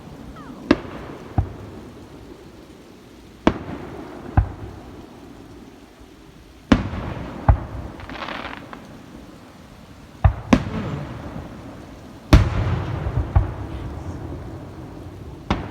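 Fireworks going off at a distance: about eleven sharp bangs at irregular intervals, each trailing off in a rolling echo, with a brief crackling hiss a little past the middle.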